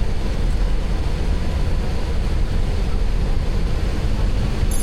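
Steady low rumble of cockpit noise on the flight deck of a Boeing 737-800 taxiing after landing, from the engines and airflow.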